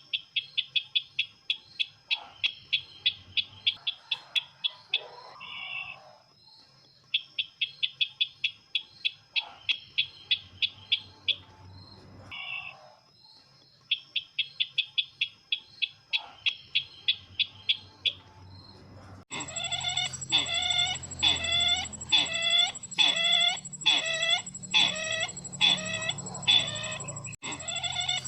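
A bird calling in rapid series of short high chattering notes, each run lasting a few seconds with pauses between, over a faint steady high whine. About 19 s in it switches abruptly to a louder, slower string of fuller clucking notes, as in a looped lure recording of the bird called sisintar ladang.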